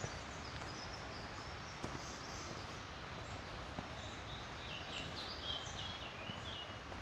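Steady rush of flowing river water with forest birds singing short, high chirping phrases, busiest in the second half. A few faint footsteps tap on the path.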